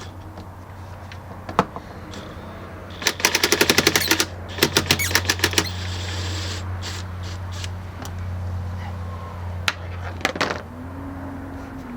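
Ratchet with a 3/8-inch swivel socket clicking rapidly in two quick runs, about ten clicks a second, as a stubborn bolt on a Ford F-150 is backed out, with a few single clicks around them. A steady low hum runs underneath.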